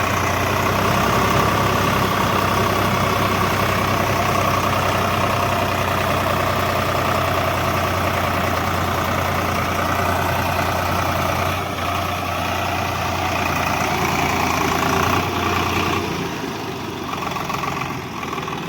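Swaraj 744 FE tractor's diesel engine running steadily, easing off and getting quieter near the end.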